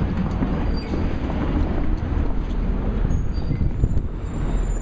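City street traffic: a steady low rumble of passing vehicles, trucks and buses, with faint high-pitched squeals about a second in and again in the second half.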